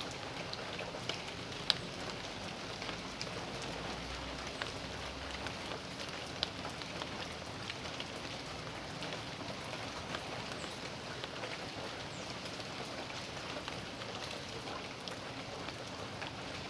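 Steady rain falling on a backyard, with a constant patter and scattered individual drops striking a surface, one sharper drip about two seconds in.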